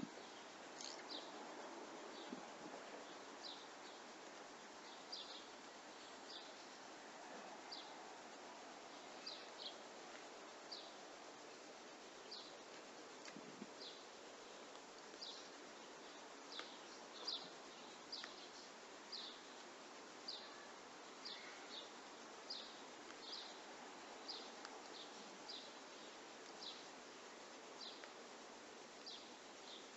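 A bird chirping faintly over steady background noise, short high chirps coming about once a second.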